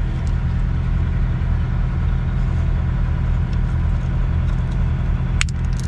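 A semi tractor's diesel engine idling steadily, with a single sharp click near the end.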